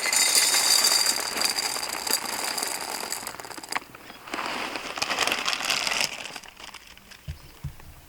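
Crinkling, rustling noise of something being handled, in two stretches with a short break just before the middle, then a couple of low thumps near the end.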